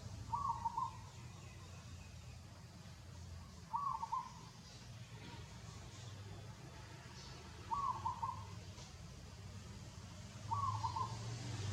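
A bird calling: a short, quavering hoot-like note repeated four times, about every three to four seconds, over a low steady background hum.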